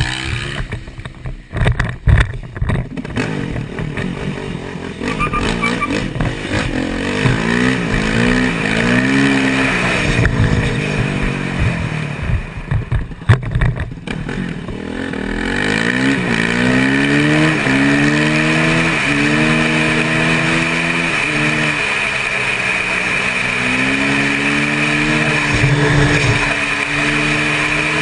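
Motor vehicle engine accelerating hard, its pitch climbing and dropping again with each gear change, over steady road noise. A few sharp knocks come near the start and again about halfway through.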